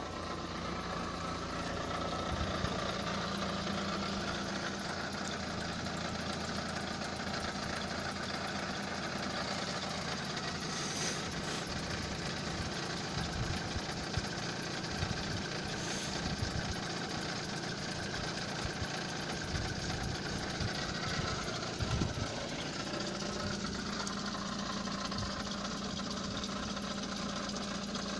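Nissan Almera's GA16DE 1.6-litre four-cylinder engine running steadily with a rattling knock from a worn, noisy lower timing chain.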